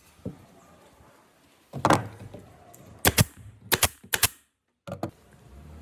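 A series of separate knocks and sharp clicks, like work on wood or tools: a heavier thud about two seconds in, then three sharp cracks about half a second apart, a brief dropout to silence, and one more knock near the end.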